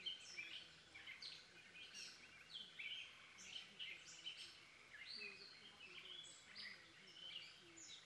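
Faint birdsong: several birds calling with many short chirps and down-slurred notes, overlapping throughout.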